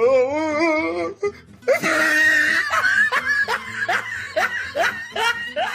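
A person's drawn-out, wavering vocal sound, then loud high-pitched laughter breaking into a rapid run of short rising whoops from about three seconds in.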